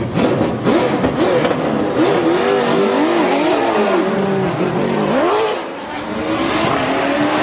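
Drift car engines revving hard, their pitch swinging up and down again and again under throttle stabs. About five and a half seconds in the pitch drops, then climbs steadily as the engines accelerate, with tyre noise underneath.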